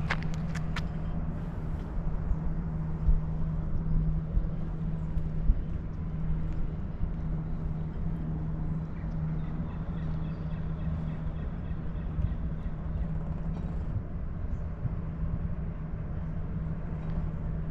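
An engine running steadily, with a constant low hum over a rough low rumble.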